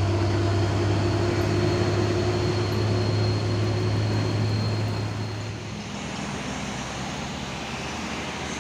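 Heavy diesel truck engine labouring steadily up a steep grade, with a deep steady drone. It fades about five and a half seconds in as the truck moves on, leaving a lower rumble of traffic.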